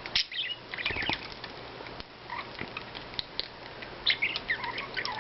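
Pet budgerigars chattering in many short, quick chirps, with wing flutters among them.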